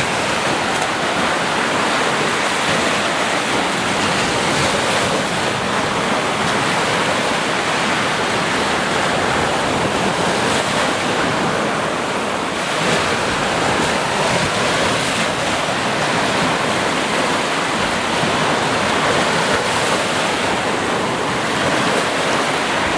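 Sea waves breaking and washing on a beach in a steady, continuous surf, with no distinct single wave crashes standing out.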